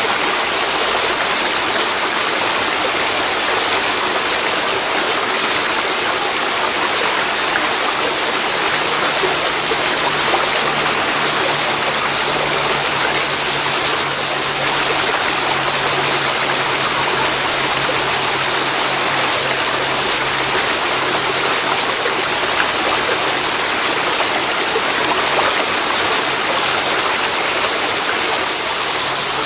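Waterfall pouring into a river: a steady, loud rush of falling and flowing water.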